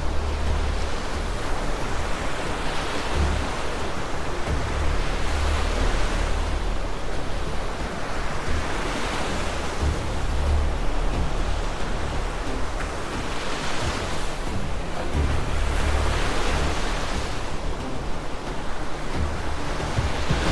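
Rushing floodwater and crashing waves, surging in swells every two to three seconds over a deep, continuous rumble.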